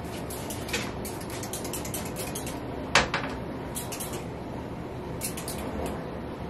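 Clinks and knocks of household items being handled during cleaning, with one sharp knock about three seconds in.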